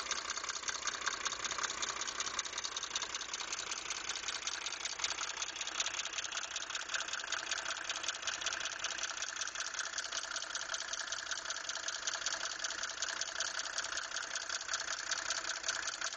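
Mercedes-Benz OM603 six-cylinder turbodiesel idling steadily with a fast diesel clatter and a high-pitched sound, the fault being diagnosed.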